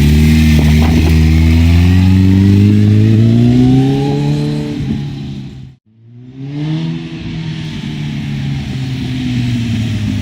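Kawasaki ZX-14R's inline-four running through a Hindle Super Sport exhaust, held at raised revs with the pitch climbing steadily for about five seconds. Just before the middle the sound drops out abruptly, then the engine comes back with the revs falling and settling to a steady lower note.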